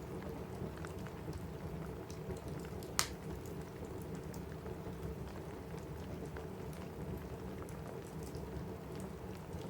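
Steady rain on a cabin roof mixed with a crackling wood fire, small pops scattered throughout and one sharp pop about three seconds in.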